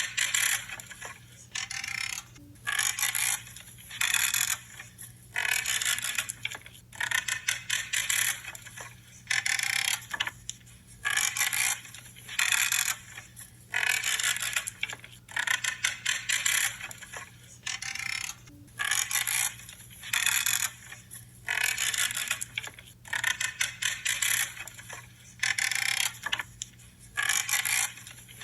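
Branches being trimmed, each cut giving a short crunching creak, repeated at about one cut every second or so.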